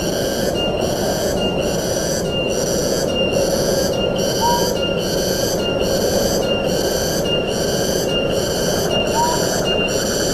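Steady rush of wind through the forest. Over it, an insect's high-pitched pulsing call repeats evenly a little under twice a second. A short rising bird note is heard about every four and a half seconds.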